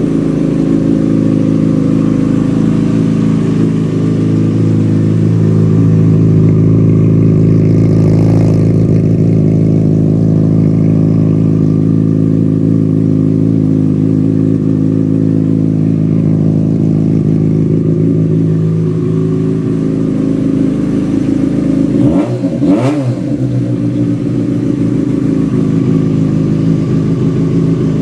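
Yamaha FZ6's inline-four engine idling steadily just after a cold start, with one short throttle blip, the pitch rising and falling, about 22 seconds in.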